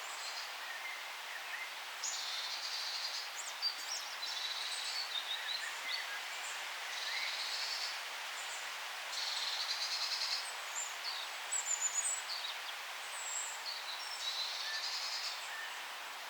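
Songbirds singing in a forest: about five high, trilled phrases a few seconds apart, starting about two seconds in, with scattered short chirps between them, over a steady background hiss.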